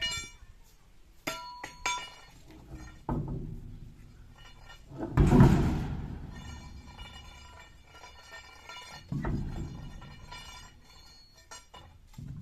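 Metal clinks and ringing clanks with several heavy thuds, the loudest about five seconds in: a steel truck wheel and tools being handled during a dual rear tyre change.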